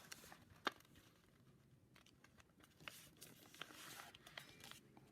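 Faint handling of a sheet of paper being folded and creased: soft rustles with a few light ticks, the sharpest just under a second in.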